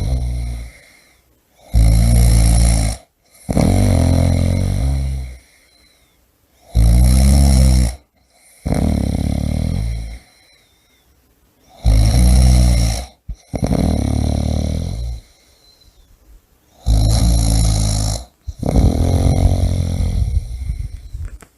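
A person snoring loudly: a rattling snore on each breath, coming in pairs (a shorter one, then a longer one) roughly every five seconds.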